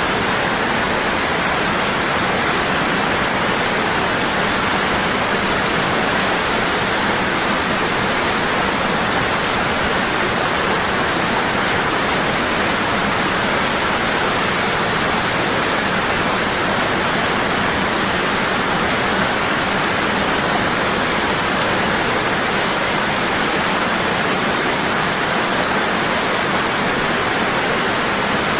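Waterfall pouring hard and steadily, an even rushing of falling water.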